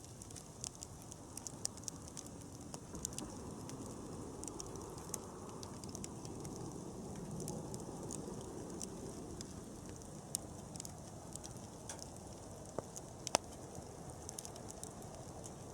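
Wood campfire crackling: frequent small pops and snaps over a steady low rush of burning, with one louder pop near the end.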